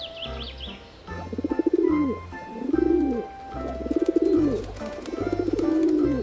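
Pigeon cooing: four rolling coos, each rising then falling in pitch, about a second apart, over soft background music.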